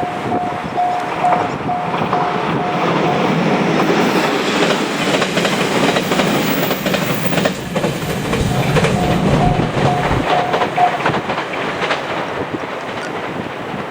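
A train passing over a level crossing, its wheels clattering over the rails. A level-crossing warning bell dings about twice a second; it is drowned out by the train in the middle and stops about eleven seconds in.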